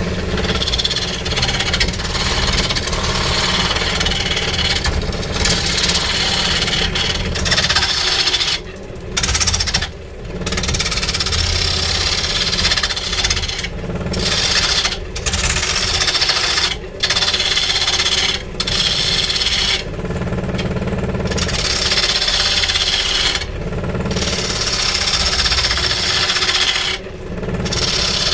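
A power tool working wood, a loud rasping run with a steady low hum beneath, broken by short pauses every few seconds.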